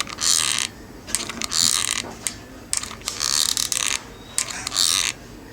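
Seashells being handled and pressed together for gluing: a run of short rasping scrapes, about one every half second to second, with sharp clicks between them.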